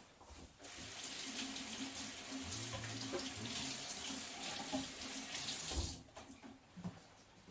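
Kitchen tap running into the sink: it is turned on about half a second in and shut off about five seconds later.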